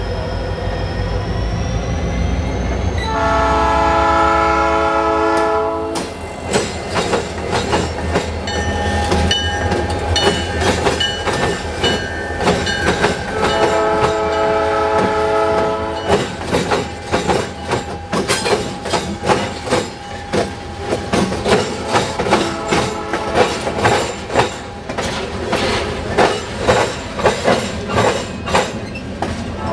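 Norfolk Southern diesel freight train sounding its horn in two long blasts, about three seconds in and again around the middle, over the locomotives' engine rumble. From about six seconds in, the wheels clatter over the rail diamond in a fast run of sharp clicks as the locomotives and covered hopper cars roll across.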